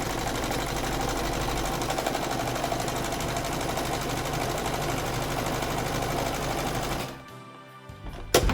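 Sewing machine running steadily, stitching sailcloth, then stopping abruptly about seven seconds in. A sharp click follows near the end.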